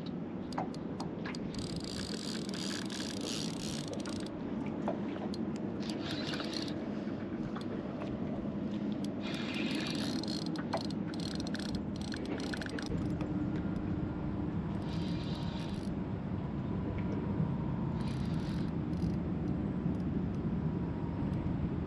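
A fishing reel being wound in short spurts while a fish is played on the rod, its gears ticking, over a steady low hum.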